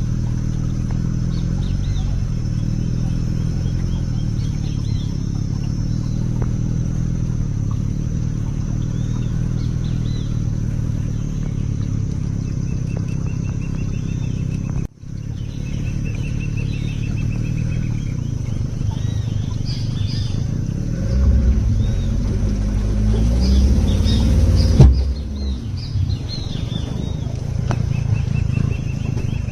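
A boat's motor running steadily, with birds calling and trilling over it. The engine grows louder and rises in pitch a little after twenty seconds in, and the sound breaks off for an instant about halfway through.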